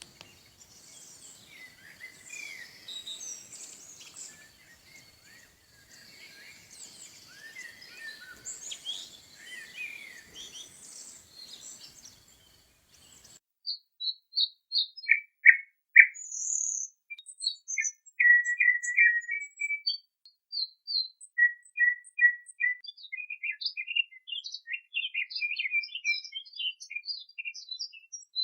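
Birdsong: first a chorus of many birds chirping over one another against a faint background hiss. About thirteen seconds in it cuts abruptly to clear, separate bird chirps and trills against silence, louder than the chorus.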